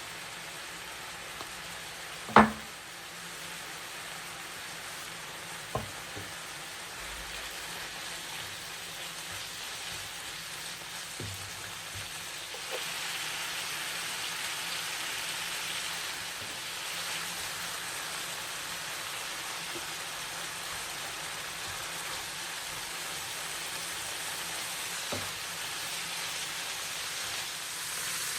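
Food sizzling in a frying pan, growing louder about halfway through, with one sharp clack of a utensil against the pan a couple of seconds in and a few lighter knocks later.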